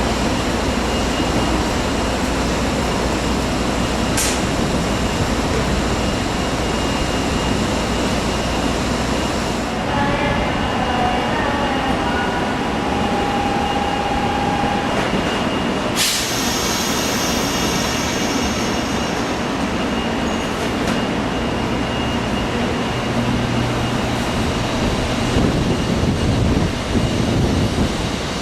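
Sanyo Shinkansen 0 series bullet train at the platform with its equipment running, then starting to pull away, a low rumble building near the end. A short steady tone sounds about halfway through, and there are two sharp clicks.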